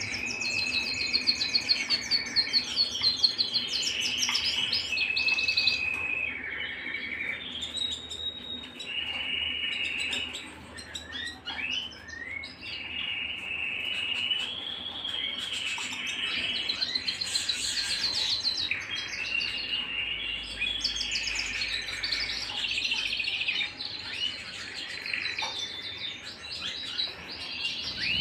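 Domestic canary singing a continuous song of fast rattling trills and held whistled notes.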